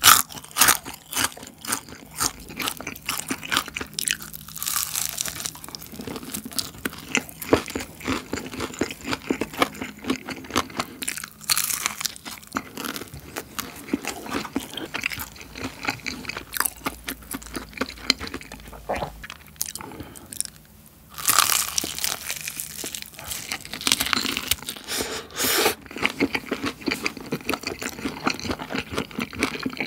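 Close-miked crunching and chewing of cheese-seasoned Bburinkle fried chicken: crisp bites of the coated chicken followed by steady wet chewing, with a brief lull about twenty seconds in.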